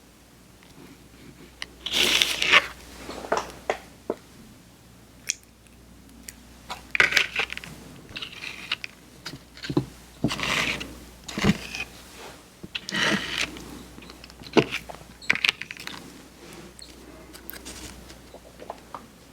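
Close-miked crunching and crackling of crisp candy being bitten and chewed, in short bursts every couple of seconds.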